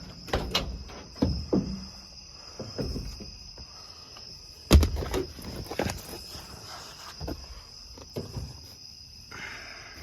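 Crickets chirping steadily, with scattered footsteps and handling knocks over it; a sharp thump about five seconds in is the loudest sound.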